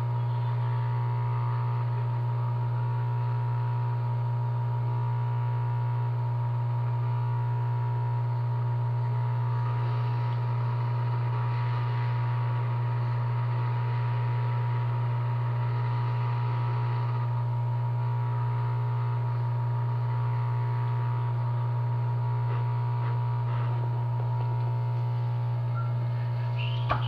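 Steady low electrical hum with a fainter high whine above it, unchanging throughout. A couple of brief clicks come right at the end.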